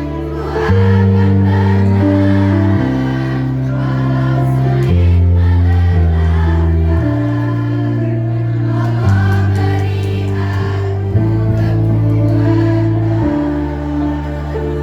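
A choir singing in unison over a sustained low accompaniment whose chords change every two seconds or so.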